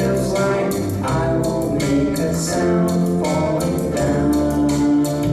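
Live band music with drums keeping a steady beat under sustained instrument tones: an instrumental passage of a song.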